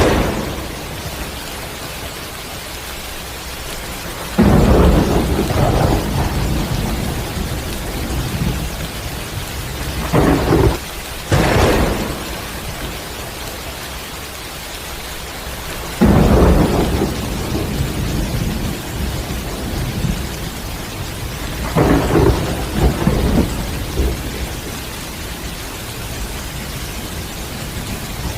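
Steady rain with thunder: sudden claps that rumble away about four seconds in and again about sixteen seconds in, a few sharp cracks around ten to twelve seconds, and a cluster of shorter rolls around twenty-two seconds.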